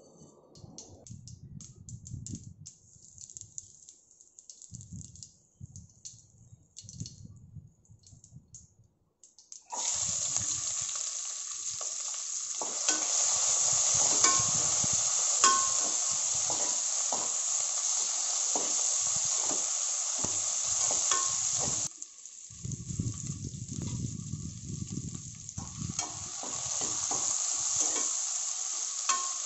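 Mustard seeds crackling faintly in hot oil in an aluminium pressure cooker, then a loud sizzle starts suddenly about ten seconds in as sliced onions and curry leaves hit the oil and fry. A steel spatula stirs them, knocking a few times against the pot.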